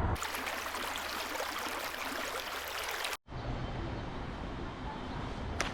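Steady rush of flowing stream water. It drops out for an instant about three seconds in and comes back a little duller.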